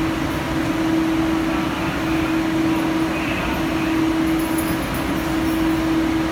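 Steady machine noise of a Guangzhou Metro Line 1 train, with a steady hum that breaks off briefly every few seconds.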